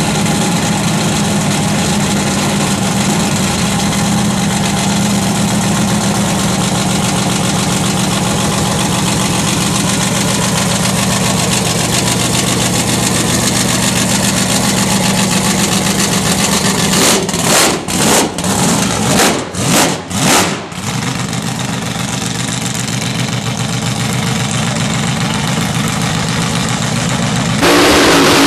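Supercharged, methanol-injected 540 big-block V8 with a 14/71 blower idling with a lumpy, steady beat; about two-thirds of the way through the sound dips and surges several times. Near the end it jumps louder as the engine runs at high revs in a tyre-smoking burnout.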